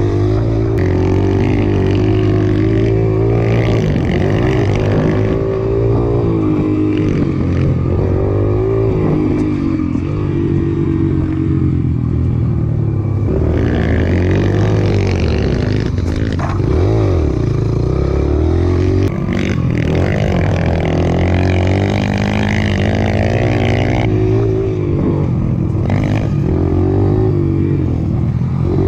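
Mini moto (small dirt-bike) engines running and revving, their pitch rising and falling repeatedly.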